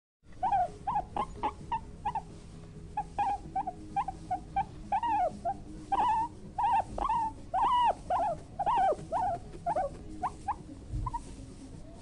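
Black bear cubs calling: a run of short whining squeals, about two or three a second, many of them rising and then falling in pitch.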